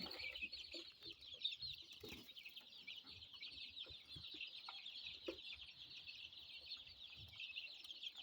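A brooder full of young chicks of mixed breeds (Marans, legbars, olive eggers) peeping constantly, many high chirps overlapping, with a few soft knocks among them.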